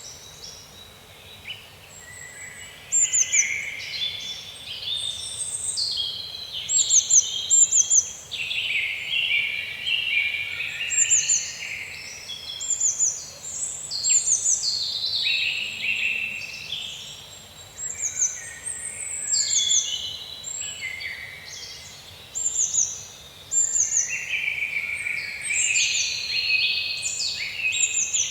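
Several songbirds singing in woodland, overlapping phrases of quick falling high notes that come every second or two, over a faint steady hiss.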